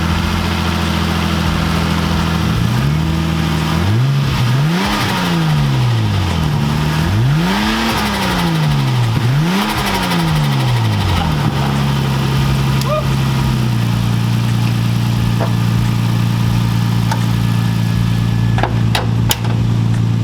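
Nissan Skyline R34 GT-T's turbocharged RB25 straight-six idling, revved up and back down several times in the middle, then settling back to a steady idle.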